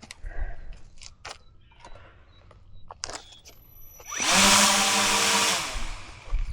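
Small RC airboat's motor and air propeller briefly throttled up about four seconds in, a loud whine with a rush of air lasting about a second and a half before it winds down. Scattered clicks and knocks come before it.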